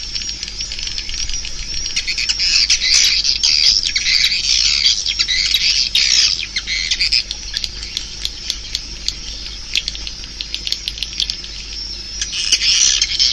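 Flock of swiftlets chirping and twittering densely, a lure call recording of the kind played through tweeters to draw swiftlets into nesting houses. In the middle the twittering thins and a run of rapid sharp clicks comes through, then the chirping swells again near the end.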